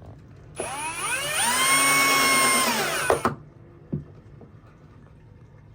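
Electric drill motor spinning up, running at a steady high speed for about two seconds, then winding down and stopping, with a click and a light knock after it.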